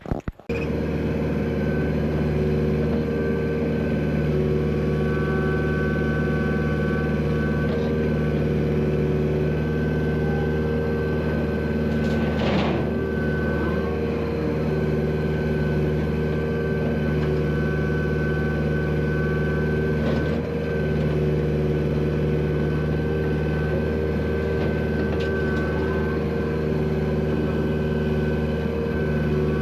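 Heavy equipment engine running steadily under load, with a steady high whine above the engine note. There is a brief louder noise about twelve seconds in.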